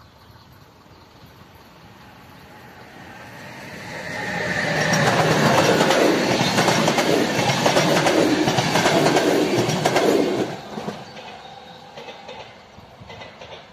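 A RegioJet passenger train hauled by a Siemens Vectron electric locomotive passing over a level crossing. It builds from about three seconds in to a loud clatter of wheels on the rails for about six seconds, then drops off sharply around ten seconds in and fades.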